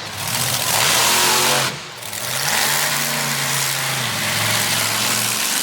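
Monster truck engine at full throttle, a loud roar that cuts back sharply about two seconds in, then running lower with the revs rising and falling.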